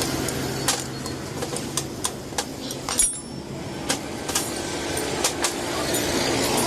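Metal hand tools clinking irregularly against engine parts, about a dozen sharp clicks, over a steady hum of road traffic.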